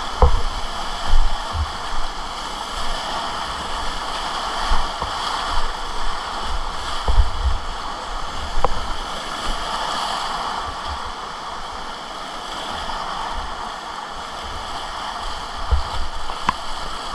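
Whitewater river rapids rushing steadily, with irregular low thumps and a few sharp knocks.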